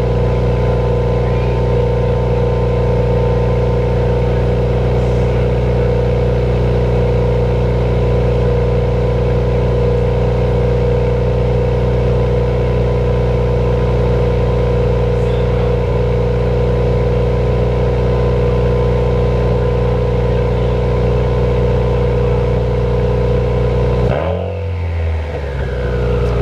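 2016 Subaru WRX's turbocharged flat-four engine idling steadily on its first startup with a newly fitted 850 Fabrications exhaust manifold. Near the end the engine note briefly dips and shifts in pitch, then settles again.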